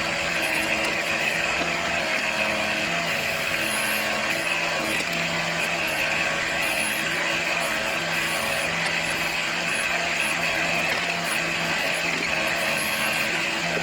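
Kubota L4600 tractor's diesel engine running steadily, powering its BH92 backhoe.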